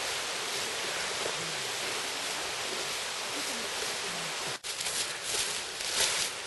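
Steady rushing of a mountain stream beside the trail. About two-thirds of the way in the sound cuts out for a moment, then a few short scuffing or rustling noises stand out over it.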